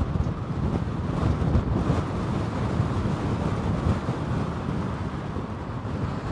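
Strong storm wind buffeting the microphone: a gusty, low rumble that rises and falls.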